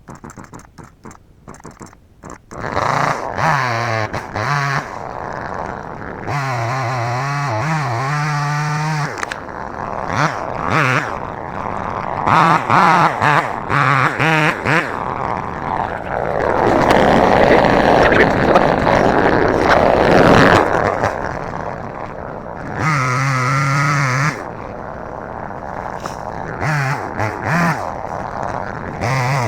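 Chainsaw revving in bursts, then cutting into a tree, loudest and roughest about 16 to 21 seconds in, then revving again.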